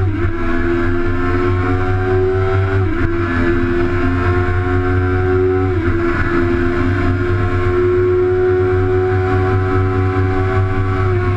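Sport bike engine pulling hard under full throttle, heard from an onboard camera with wind rushing over the microphone. Its pitch climbs slowly and drops sharply at upshifts about three and six seconds in, then a long pull ends in another shift near the end.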